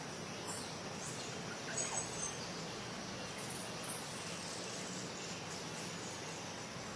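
Outdoor ambience: a steady hiss with a few short, high bird chirps about two seconds in.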